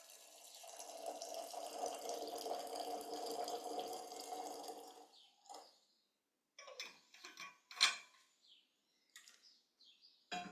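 Tea being poured into a cup, a steady trickle lasting about four seconds, followed by a few small, sharp clicks and knocks.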